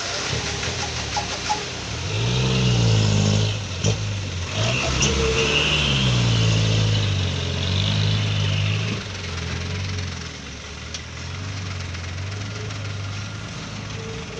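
Dump truck's diesel engine revving hard twice, its pitch climbing then sinking back, before settling into a lower, steady run.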